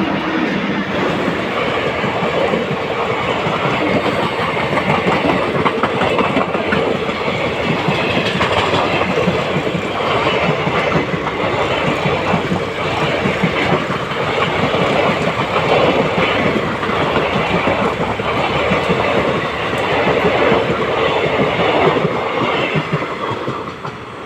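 An Indian Railways passenger train passing at speed, its coaches' wheels clattering rhythmically over the rail joints. The sound fades away near the end as the train moves off.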